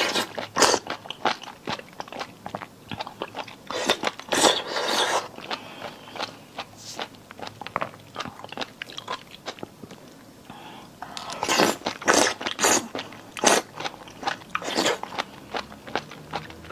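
Close-up chewing of crunchy sour-and-spicy marinated jellyfish: many crisp crunches in irregular clusters, with denser bursts about four seconds in and again around eleven to thirteen seconds.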